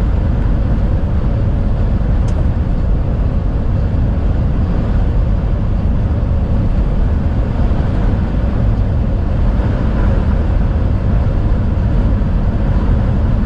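Strong crosswind rushing around a moving truck's cab, a steady low rumble heard from inside the cabin, over the truck's own road and running noise.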